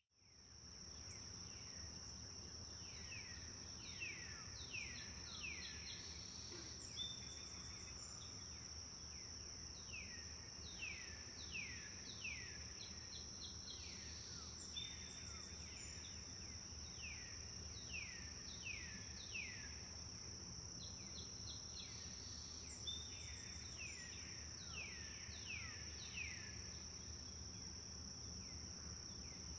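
Songbird singing repeated phrases of quick downward-sweeping whistled notes, over a steady high-pitched insect drone and a low background rumble. The sound fades in during the first second.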